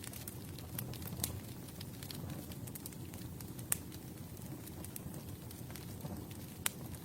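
Campfire burning: a steady low rumble with scattered sharp crackles and pops of burning wood, a few louder pops a little past halfway and near the end.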